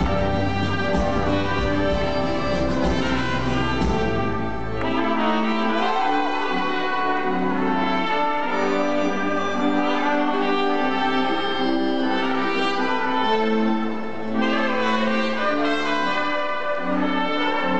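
Live band playing an instrumental passage, with trumpets and other horns carrying a steady melody over the band. The deep bass drops out about five seconds in.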